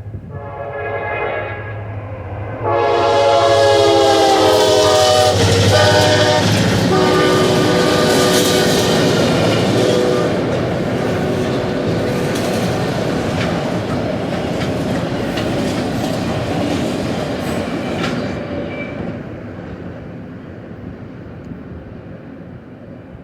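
CSX diesel freight locomotive sounding its air horn, a short blast then a long one whose pitch drops as it passes. The locomotive and its autorack cars then roll by, steel wheels on the rails, the noise fading away over the last few seconds.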